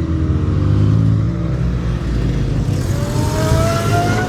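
Car engines running. One engine note falls away over the first second, then another engine revs up with a rising pitch through the last second and a half.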